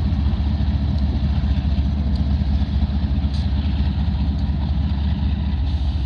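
Diesel freight locomotives of a BNSF container train running with a steady low rumble as the train pulls slowly away.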